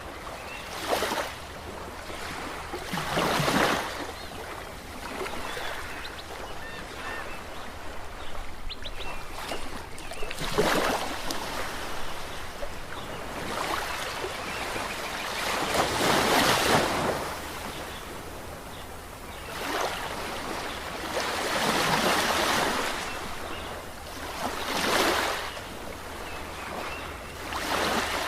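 Ocean waves breaking and washing ashore, a steady surf with a louder surge every few seconds.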